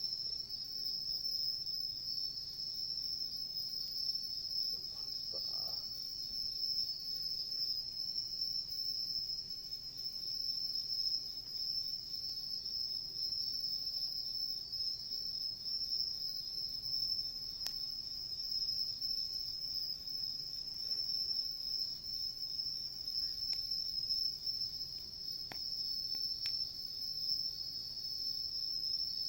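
Insects, crickets among them, trilling in a steady high-pitched chorus that never breaks. A few faint snaps from the wood fire come in the second half.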